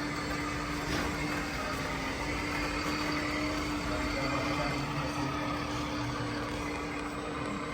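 Radio-controlled construction machines running: a steady mechanical hum with one constant tone through it.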